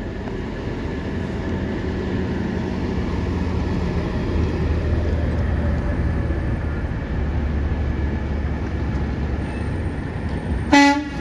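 Diesel garbage truck engine running with a steady low drone that swells for a few seconds in the middle, then one short horn toot near the end.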